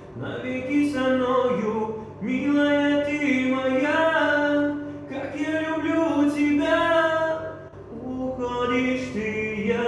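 A man singing a slow melody in long held notes, in four phrases with short breaths between them.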